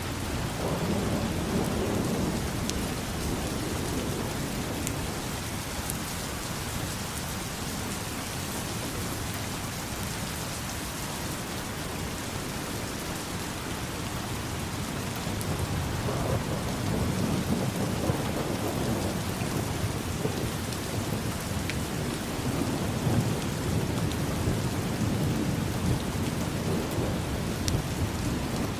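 Steady heavy rain, with low rolling rumbles of thunder swelling under it near the start and again through the second half.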